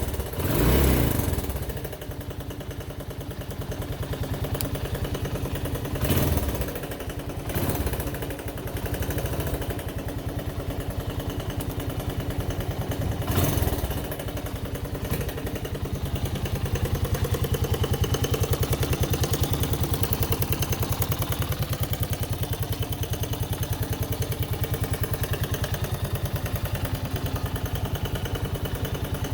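1982 Honda XL125R's single-cylinder engine running at idle with an even pulse, blipped briefly up a few times in the first half, then held at a steady idle.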